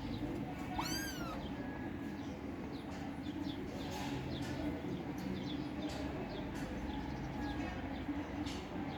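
Kittens meowing: one clear high meow that rises then falls about a second in, with short faint cries through the rest.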